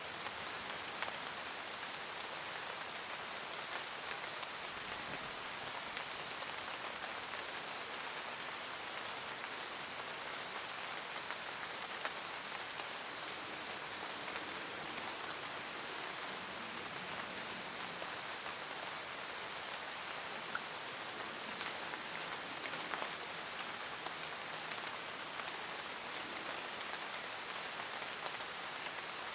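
Steady rain falling on forest leaves: an even hiss of rain with many scattered, sharp drop ticks.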